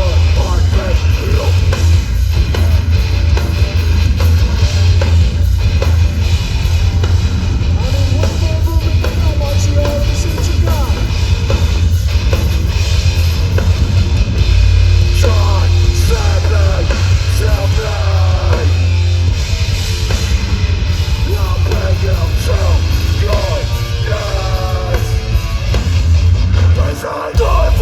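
Hardcore band playing live and loud: distorted guitars, bass and drums with a heavy, booming low end. The sound drops briefly for a moment near the end before coming back in.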